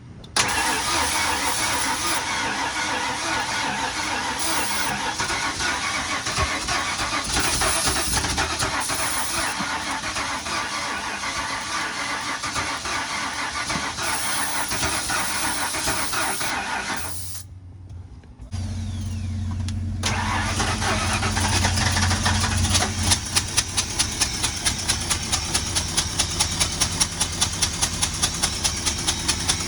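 Ford 460 big-block V8 starting and running roughly while its timing is being set. It dies about 17 seconds in, catches again a second or so later and runs with a steady hum. From about 23 seconds a regular puffing comes about two to three times a second, which the owners later put down to a spark plug out of cylinder one and had taken for an exhaust leak.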